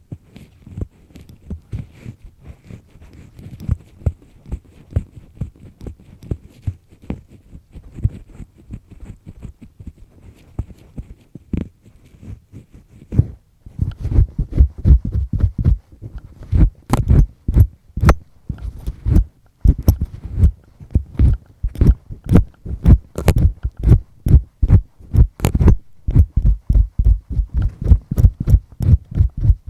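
Double disc-type earpick scraping firmly inside an ear canal close to the microphone: rapid rubbing strokes with a dull thud on each, soft at first and much louder from about halfway through.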